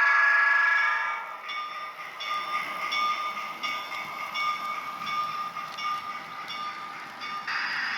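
Sound decoder of an N scale Southern Pacific Daylight model steam locomotive, playing through its small speaker: a loud multi-tone whistle chord that cuts off about a second in, then a steady run of repeating chuffs, with a short hiss near the end.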